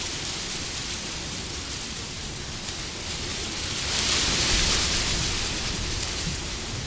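Wind blowing as a steady rushing hiss, with a gust swelling about four seconds in and easing off again.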